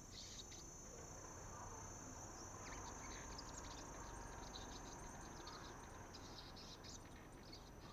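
Young sunbirds twittering in faint, quick, high chirps that come in several short bursts, over a steady high-pitched ringing drone.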